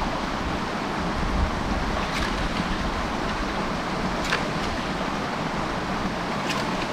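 Steady rush of running water from a stream, with a few faint clicks.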